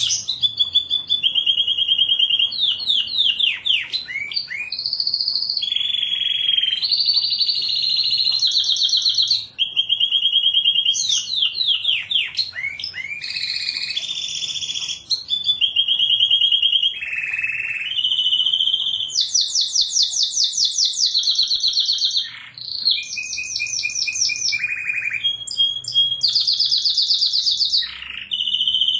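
Domestic canary singing a continuous song of rapid trills, each run of quickly repeated notes held at one pitch for a second or two before switching to another, with quick falling sweeps between the runs.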